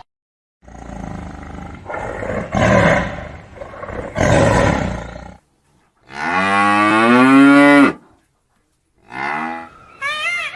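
A run of animal calls. First a rough, noisy call swelling several times for about five seconds, then one long pitched call like a moo lasting about two seconds, a short call, and near the end a quick series of short arching calls.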